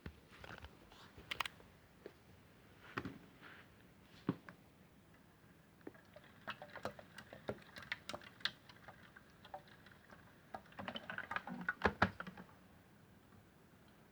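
Irregular small clicks, taps and sticky crackles from pink slime and a plastic toy washing machine being handled. The clicks are sparse at first, grow thicker about halfway through and come thickest and loudest near the end.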